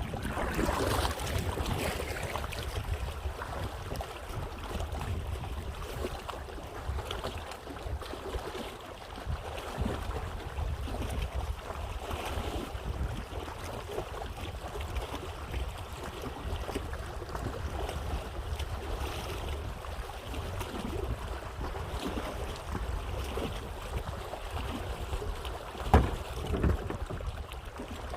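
Wind buffeting the microphone over the sound of water around a kayak on open water, with a single sharp knock near the end.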